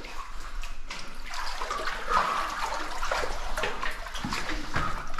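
Water splashing and sloshing irregularly as a person wades into deep water in a flooded cave passage.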